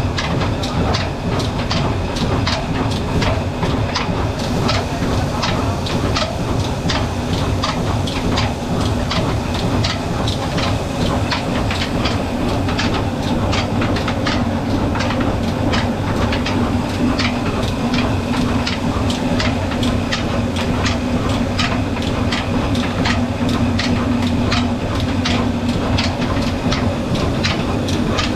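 Old Ruston-type diesel engine driving a flour mill, running steadily with an even knocking beat a few times a second over a constant low hum.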